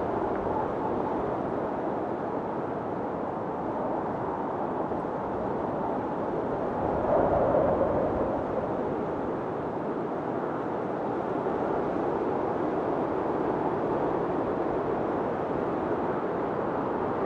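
Snowstorm wind blowing steadily, with a stronger gust swelling briefly about seven seconds in.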